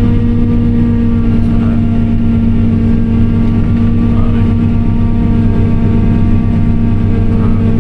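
Large farm diesel engine running steadily under load, a constant low drone with a steady hum that neither rises nor falls.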